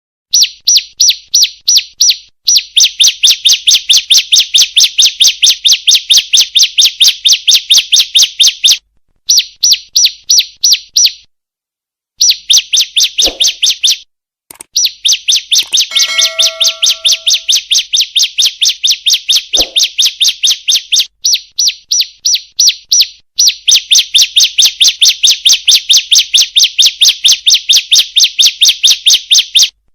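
Female ciblek (a prinia) calling: a fast, even run of sharp high chip notes, about five a second, in long bursts broken by brief pauses. It is a lure call used to set male ciblek calling.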